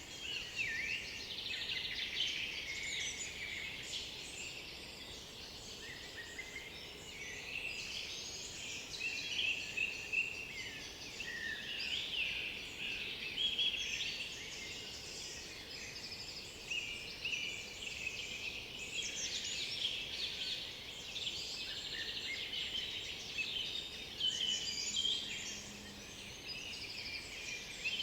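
A chorus of several songbirds singing at once in a forest, their songs and chirps overlapping without a break.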